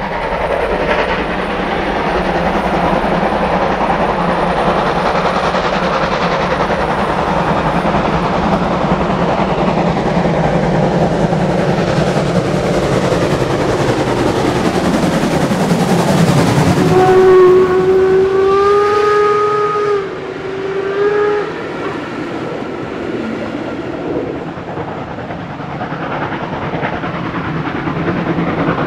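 Steam locomotive and its train passing, the running noise building to its loudest about 17 seconds in. The locomotive's steam whistle sounds then, a long blast followed by a short one, and the wagons keep rolling past afterwards.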